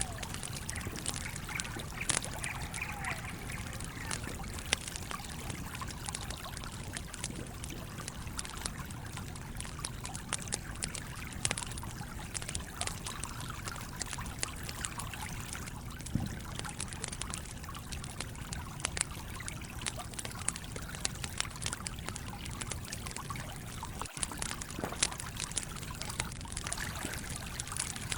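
Campfire crackling with frequent sharp pops over the steady rush of a flowing stream.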